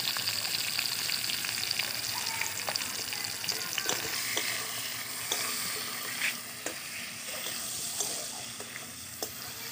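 Eggplant pieces sizzling as they fry in hot mustard oil in an aluminium kadai. A metal spatula scrapes and clicks against the pan now and then as the pieces are turned.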